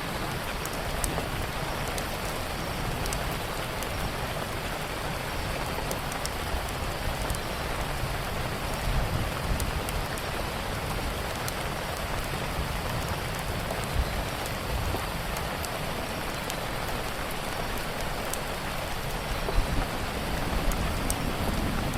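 Steady rain falling on a surface, with scattered sharp crackles of a wood fire on top and a low rumble beneath.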